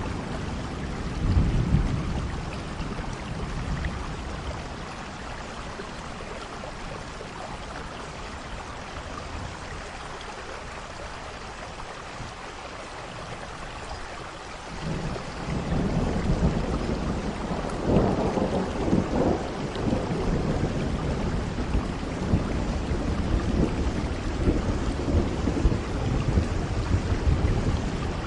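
Steady rain with soft rolling thunder. A short rumble comes near the start, and after a quieter stretch a long roll of thunder builds about halfway through.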